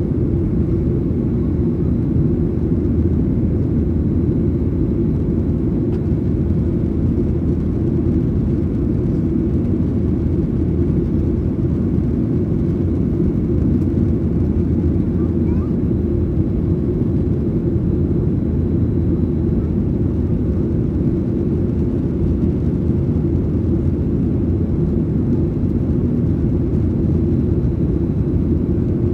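Steady cabin noise inside a Boeing 737-900ER in flight: its CFM56-7B turbofan engines and the rushing airflow heard as an even, low rumble.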